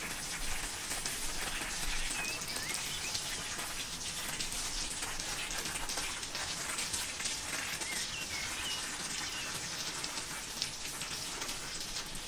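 A few short bird chirps over a steady, crackling hiss.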